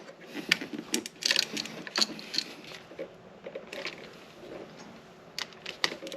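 Irregular small clicks, taps and rustles of hands working electrical wires and a switch in a wall box.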